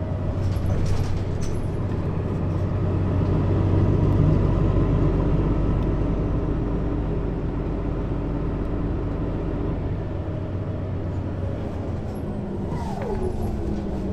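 Mercedes-Benz Citaro city bus engine and ZF Ecomat automatic drivetrain, heard from above the engine, running under steady load and swelling about four seconds in. It eases off around ten seconds in as the bus slows, with a falling whine from the drivetrain near the end.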